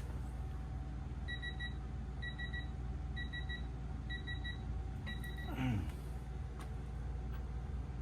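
Electronic beeper sounding five groups of short, high, rapid beeps, about one group a second, followed by a brief sound that falls sharply in pitch.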